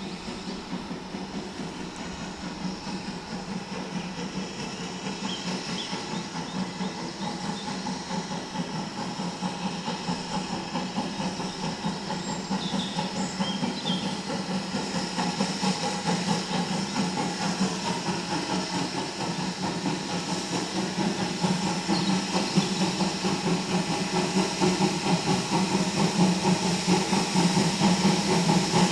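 A heritage train worked by a steam locomotive and a diesel shunter, drawing steadily nearer: a steady engine drone with hiss and a fast rhythmic pulsing, growing gradually louder.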